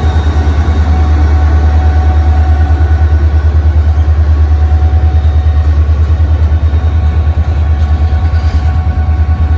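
EMD SD40-2 diesel-electric locomotive running close by, a loud deep engine rumble with a fast, regular throb and a few steady whining tones over it.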